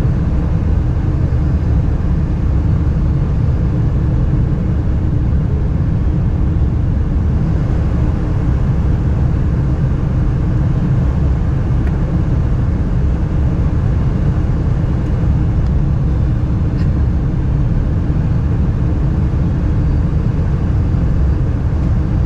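Steady low rumble of a Boeing 747-400's engines and airflow heard from inside the passenger cabin.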